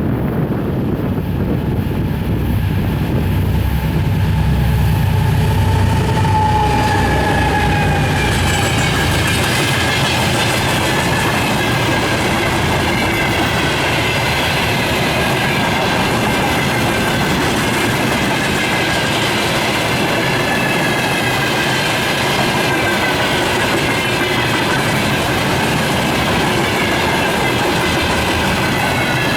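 A 2TE10U twin-section diesel locomotive passes with a deep low engine sound for the first few seconds, then its freight wagons roll by: a steady rolling rattle of wheels on rail with high, wavering wheel squeals over the top.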